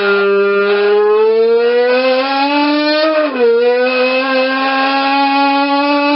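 A mouth sound made into a soda can, imitating a Formula 1 engine: one held, buzzing tone that climbs slowly in pitch, drops sharply about three seconds in like a gear change, then climbs again.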